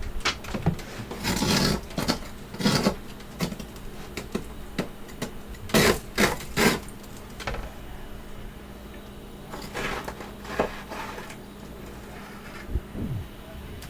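Freezer frost being bitten and crunched in the mouth in irregular bursts, the loudest cluster about halfway through, over a steady low hum.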